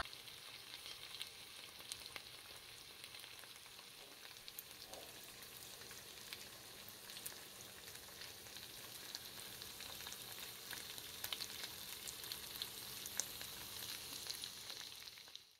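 Chicken pieces frying in oil in a pan: a faint, steady sizzle dotted with small crackles and pops, growing a little louder toward the end.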